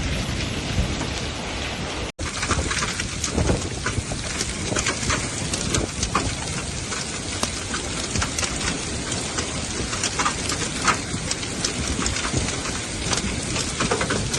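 Heavy rain falling, with many close, sharp raindrop hits over a steady hiss. The sound drops out for an instant about two seconds in.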